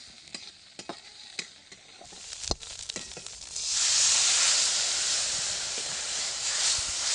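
A spatula clicks and scrapes against a cooking pan for the first few seconds. About three and a half seconds in, a loud sizzle of frying in hot oil breaks out and keeps going.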